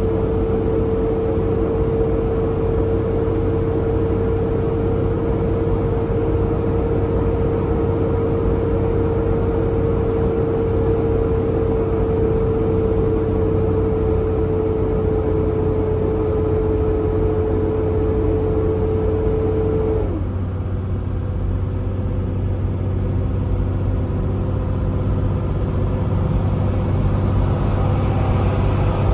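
Semi truck driving down the road, heard from inside the cab: a steady engine drone with a clear held tone that sinks slowly, then drops away sharply about twenty seconds in.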